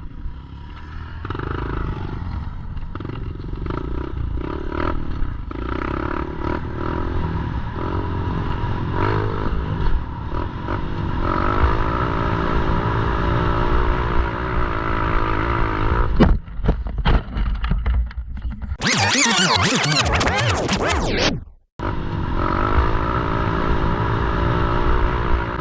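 Pit bike engine running while being ridden, revving up and down repeatedly, with scraping and rattling noise over it. Near the end the sound changes abruptly for a couple of seconds and cuts out briefly.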